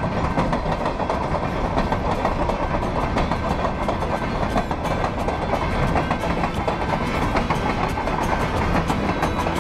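Covered hopper cars of a freight train rolling past close by: a steady rumble of steel wheels on rail, with a rapid run of sharp clicks and clanks from the wheels and couplings.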